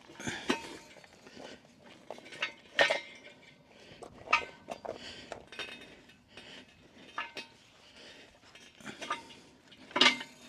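Steel quick-hitch parts and pins clinking and knocking as they are handled and shifted against the tractor's lift arms: a scattered series of sharp metal clinks, some ringing briefly.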